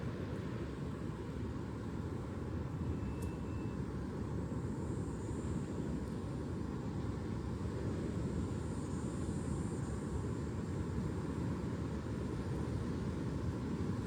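A steady low rumbling noise without breaks, with a brief faint high tone about three seconds in.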